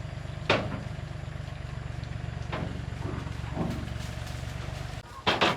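An engine idling steadily with a low rumble, switched off about five seconds in. A few light clicks sound over it, and a sharp clatter comes right after it stops.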